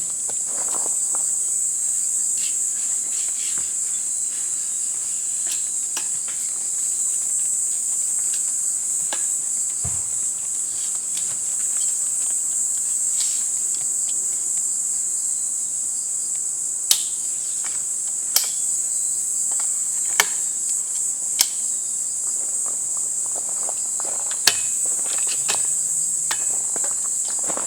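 Steady high-pitched chorus of insects, crickets or similar, trilling without a break. In the second half, a handful of sharp clicks or knocks cut through it.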